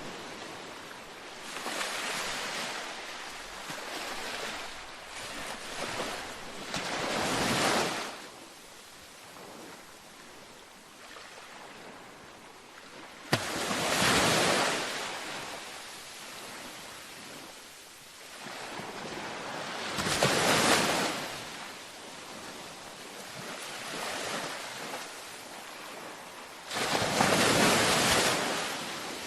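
Gentle ocean waves washing onto a beach, each breaking swell rising and falling away in turn, about five in all, roughly six seconds apart. A single sharp click sounds just before the third wave.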